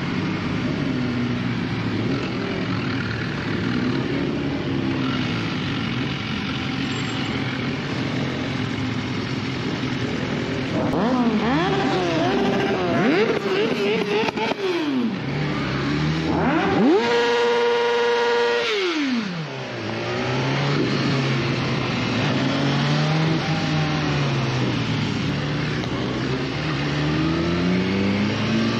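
BMW S1000RR's inline-four engine under way, its pitch climbing and dropping as the rider accelerates and shifts, with wind noise. Just past the middle it is revved very high, holding a high wail for about two seconds before the pitch falls sharply.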